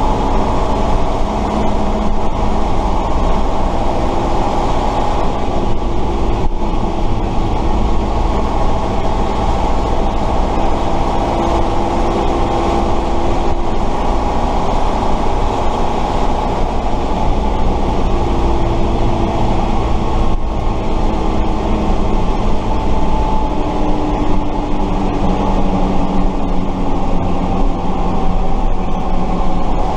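Tatra 138 fire truck's air-cooled V8 diesel engine running while driving, a loud steady rumble whose pitch rises and falls as engine speed changes, heard on board.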